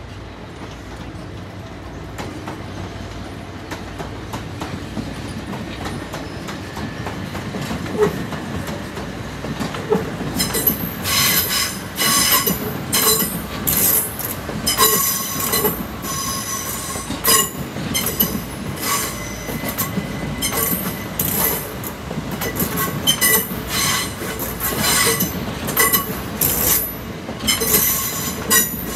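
A train running slowly over curved track and points, its rumble building over the first ten seconds. From about a third of the way in, its wheels squeal against the rails in short, high screeches, over and over.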